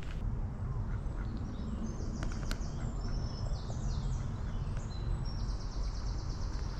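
A small songbird singing in several quick, high trilled phrases, the last one longer, over a steady low rumble.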